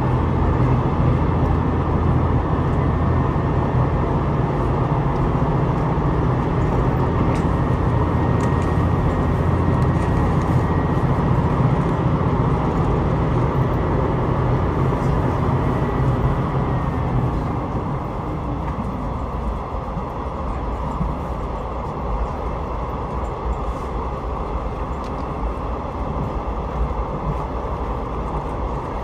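Passenger train running along the line, heard from inside the carriage: a steady rumble with a low drone from the train's drive. The drone and a faint high whine fade out about two-thirds of the way through, leaving a quieter rolling rumble of wheels on rail.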